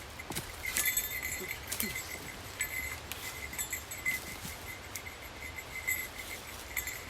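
Irregular snaps, cracks and knocks of dry branches and brush being handled and stepped on, over the steady pulsing trill of an insect.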